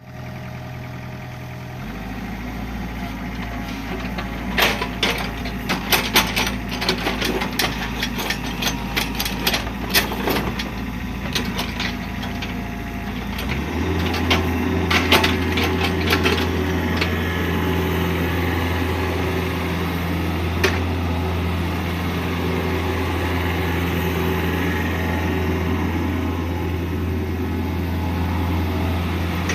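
Kubota K-035 mini excavator's diesel engine running steadily, its engine speed stepping up about 13 seconds in and holding there. Many sharp knocks and clanks come in the first half, as the machine is worked.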